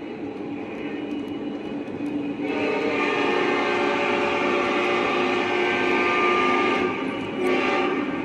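Locomotive horn blowing a long chord of several steady tones from about two and a half seconds in until about seven seconds, then a short second blast, over the steady running sound of the train.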